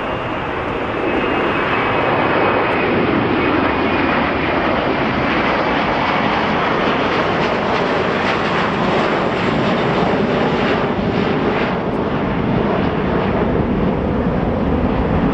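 Jet airliner passing close by, its engines a loud steady noise that swells a little about a second in, with a faint high whine early on.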